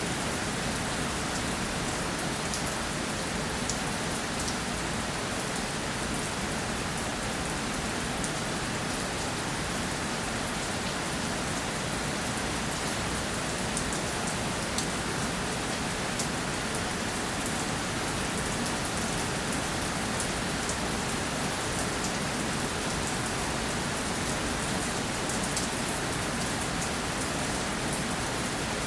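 Steady rainfall, a dense even hiss of rain on surfaces with scattered individual drop ticks.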